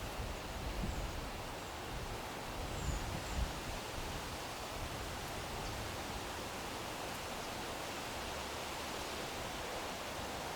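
Outdoor ambience: a steady wind hiss with rustling, and a few low gusts rumbling on the microphone in the first few seconds. A few faint, short, high chirps come through early on.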